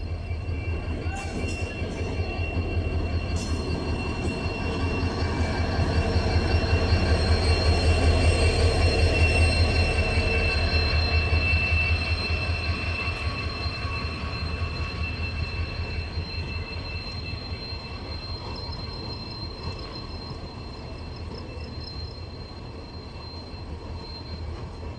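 Passenger train pulling in alongside a platform: a heavy low rumble of coaches running over the rails with high, steady wheel squeal. It is loudest about eight to twelve seconds in, then eases off as the coaches keep rolling past.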